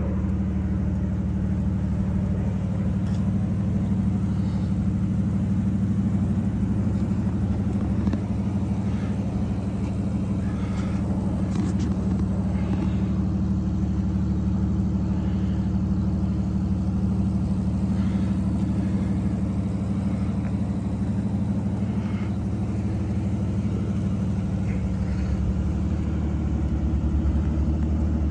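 Aston Martin Rapide S's V12 engine idling steadily, a low even hum.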